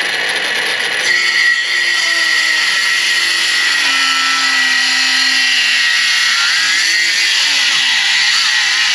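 Milwaukee M12 cordless circular saw with a Diablo demolition blade cutting through a treated 2x4: a steady high motor-and-blade whine under load, its pitch wavering slightly as it bites.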